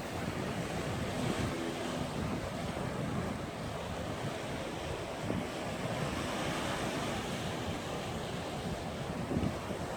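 Sea waves breaking against a rocky shore in a steady wash of surf, with wind buffeting the microphone.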